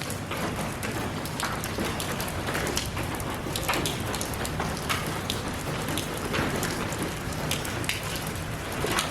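Rain falling steadily, with many individual raindrops ticking sharply at irregular moments over the even hiss of the downpour.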